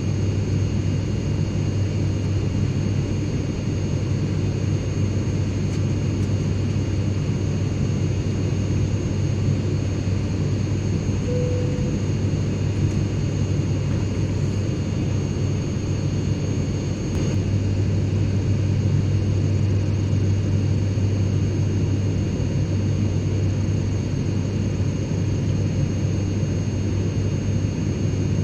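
Airplane cabin noise in flight: a steady rushing drone with a strong low hum and faint, steady high-pitched whines. A faint click comes about two-thirds of the way through.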